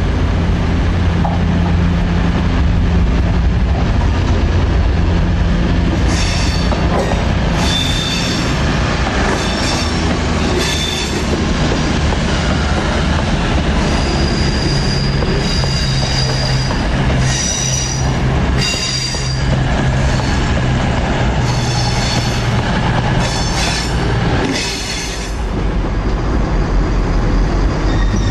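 A CrossCountry Voyager diesel multiple unit running in on curved track, its underfloor diesel engines humming at first. From about six seconds in, the wheel flanges squeal on the curve in repeated high-pitched whistles as the coaches pass.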